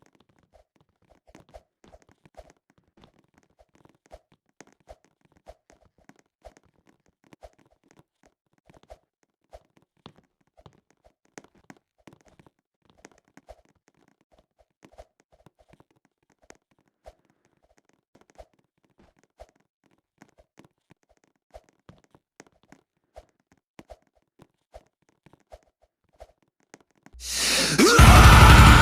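Faint, irregular clicks and taps, a few a second, then loud music starts about a second before the end.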